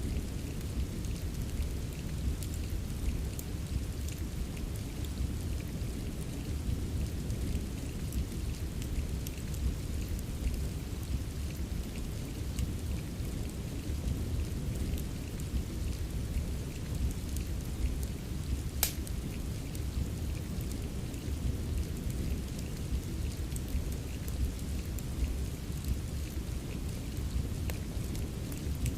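Steady rain with a deep, even rumble, mixed with the scattered crackle of a wood fire, and one sharper pop about 19 seconds in.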